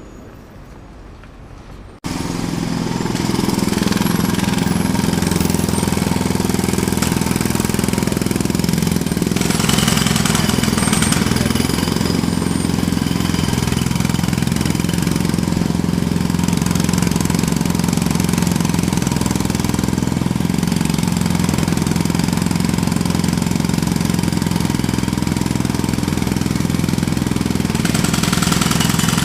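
Jackhammer cuts in suddenly about two seconds in after a quieter stretch, then keeps hammering steadily and loudly.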